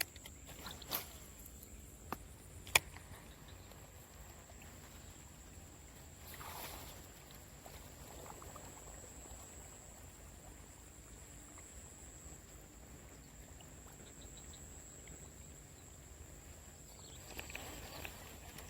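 Quiet outdoor ambience with a steady high-pitched insect drone, broken by a few sharp clicks, the loudest about three seconds in, and two brief rushing swishes, one near the middle and one near the end.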